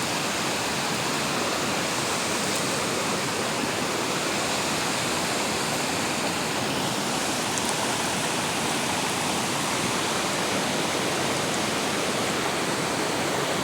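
Steady rushing of river water, an even noise that holds unchanged throughout.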